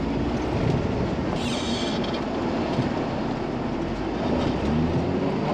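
Truck engine running with a steady low rumble while the truck is driven in snow; a brief hiss about a second and a half in.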